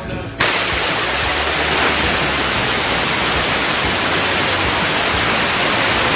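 Hybrid rocket engine firing: it lights suddenly about half a second in, then runs as a loud, steady roar of noise across all pitches without letting up.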